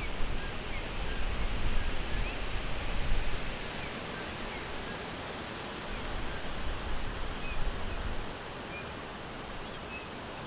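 Forest ambience: a steady hiss with faint, scattered short bird chirps throughout. A low rumble underneath swells during the first few seconds and again around six to eight seconds in, then fades.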